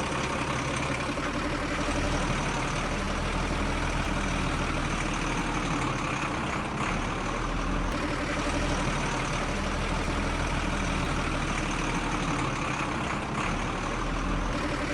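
A heavy vehicle engine idling steadily, like a truck's, with an even low hum.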